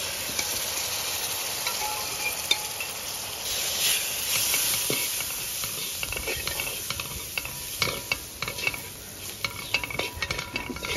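Liquid poured into a hot pot of fried onion and spice masala, sizzling with a steady hiss. From about six seconds in, a steel spoon stirs the masala, clicking and scraping against the aluminium pot.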